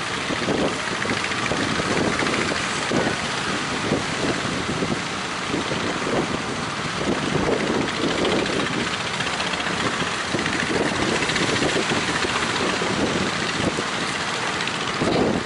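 Fishing boat's engine running steadily, with strong wind buffeting the microphone.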